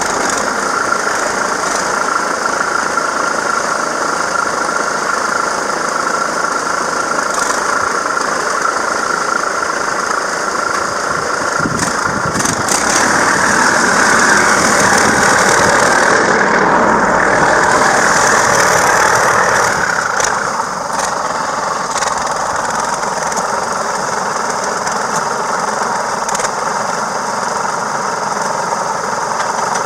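Old two-cylinder John Deere tractor engine running steadily while pushing a hay wagon in reverse, growing louder for several seconds in the middle before settling back.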